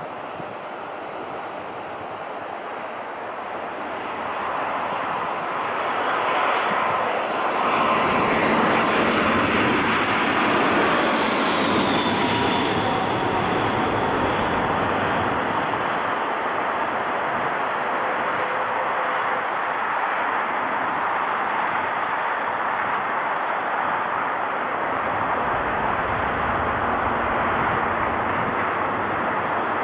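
Airliner's engines passing close by: the noise builds over the first several seconds, peaks around ten seconds in with a whine that falls in pitch, then settles into a steady rumble.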